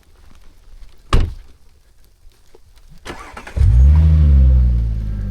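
Audi A7 engine starting: a sharp click about a second in, then the engine catches with a brief flare in revs and settles into a steady idle.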